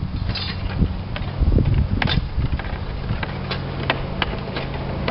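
Sharp clicks and taps of slates and roofing tools being handled, scattered through a few seconds, over a steady low engine-like hum.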